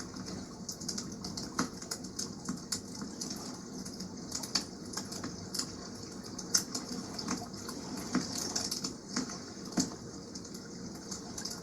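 Campfire crackling, with frequent irregular sharp pops, over a steady wash of water.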